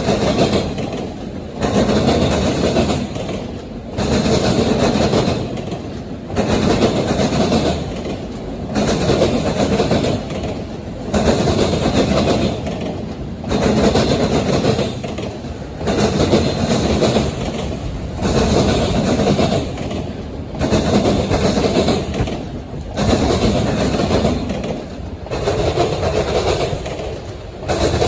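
CSX freight train's cars rolling past, their wheels and trucks rumbling and clattering over the rail joints. The sound swells and eases in a regular rhythm about every two and a half seconds as each car goes by.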